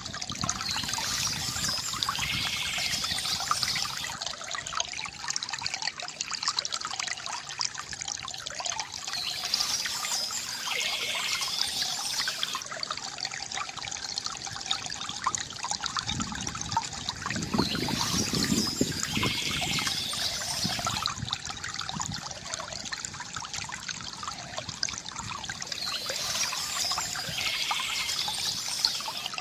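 Water trickling and gurgling steadily from a bamboo fountain spout, with a brighter, hissier swell of water lasting about three seconds that comes back roughly every eight or nine seconds.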